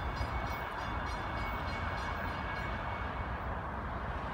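Amtrak push-pull shuttle train, a GE P42 diesel locomotive with a cab car, running past on the rails: a steady rumble with a quick run of wheel clicks that dies out about a second and a half in, and a thin high whine that fades near the end.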